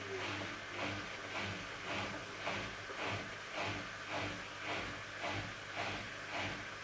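Samsung Eco Bubble front-loading washing machine in its wash phase: water and wet laundry swishing in the turning drum in a regular rhythm, nearly twice a second, over a steady low motor hum.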